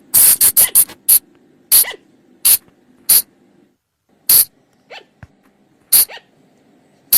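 Colugo (Sunda flying lemur) calls: short, sharp, shrill cries. A quick run of four comes in the first second, then single cries follow every half second to a second.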